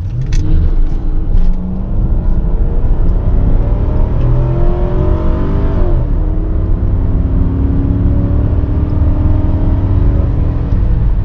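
1998 Lincoln Mark VIII's 4.6-litre DOHC V8 at full throttle from a standstill, its note rising as the revs climb. The pitch drops suddenly about six seconds in as the automatic shifts up, then climbs again.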